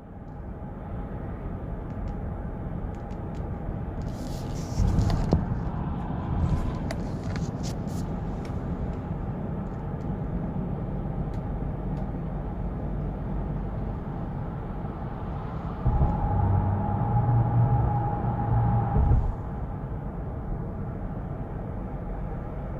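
SsangYong Rexton Sports pickup's 2.2-litre diesel engine running with a steady low rumble: the noise and vibration the owner takes for a defect. It grows louder with some clicks about five seconds in, and again for a few seconds near the end of the middle, when a steady whine rises over the rumble.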